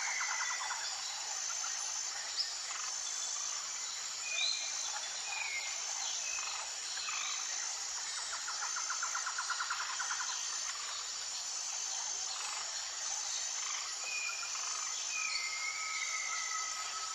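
Tropical forest ambience: several birds calling with short whistled notes, slurred glides and rapid trills, over a steady chorus of insects with a short high note pulsing about once a second. A single held whistle comes in near the end.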